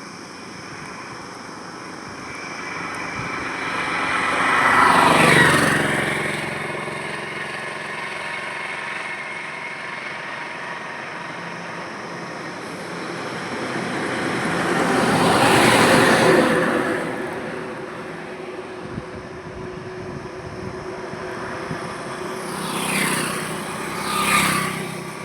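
Road vehicles passing one after another over a steady traffic hum. One passes about five seconds in, a longer one passes about two-thirds of the way through, and two more go by close together near the end.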